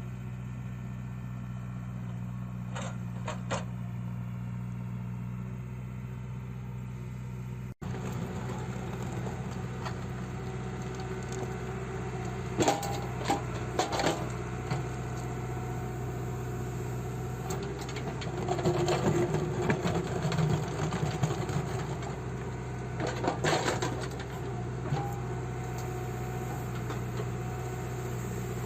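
JCB 3CX backhoe loader's diesel engine running steadily, working harder and rougher for a few seconds in the middle, with several sharp knocks scattered through.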